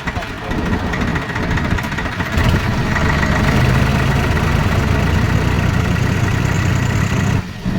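Swaraj 4x4 tractor's diesel engine running steadily. It gets louder about two and a half seconds in, then dips sharply near the end.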